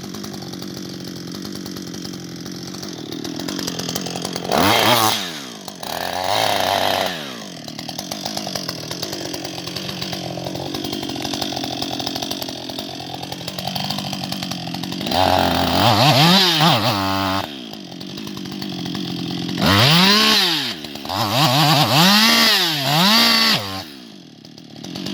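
Husqvarna 560XP two-stroke chainsaw running at a low idle, with about five bursts of throttle in which the engine revs up and falls back. The longest bursts come in the second half.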